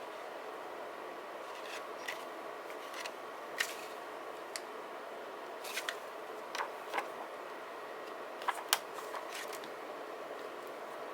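Scattered light clicks and rustles of paper and stickers being handled on a desk, over a steady low hiss.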